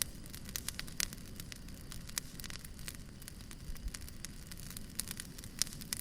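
Wood fire burning, with irregular sharp crackles and pops, several a second, over a low steady rumble.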